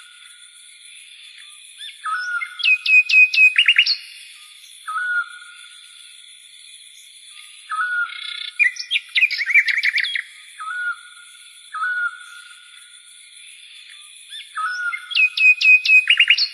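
Repeated bird-like calls: a short whistled note every two to three seconds, and three quick runs of rapid high chirps, about three seconds in, near the middle and near the end. Under them runs a steady high-pitched drone.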